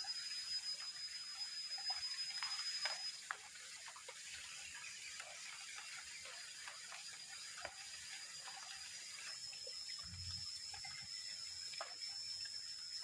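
Rain falling in forest with scattered drips, a little heavier in the first few seconds. A thin, steady high tone runs through it and steps slightly higher about nine seconds in.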